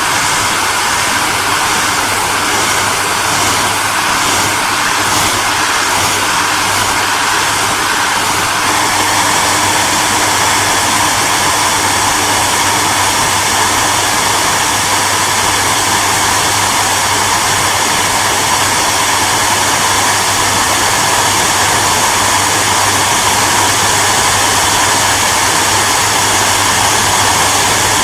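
Hair dryer running steadily: the motor hums under the rushing air of the fan. About eight seconds in, the tone shifts slightly and becomes a touch louder.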